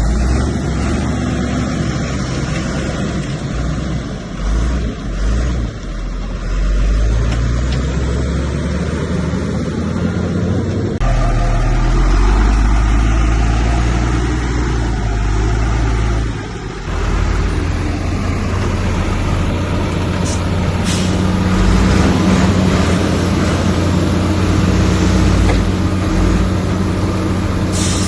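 Heavy diesel engine of earthmoving machinery running hard under load, with a deep steady rumble. The sound shifts abruptly twice, about eleven and seventeen seconds in.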